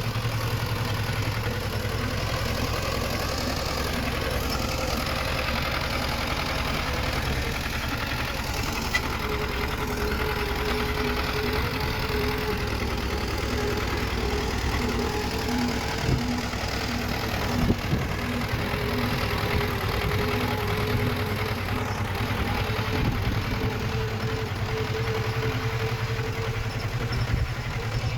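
Diesel engine of earthmoving machinery running steadily, with a wavering mid-pitched tone over it and a few short knocks a little past halfway through.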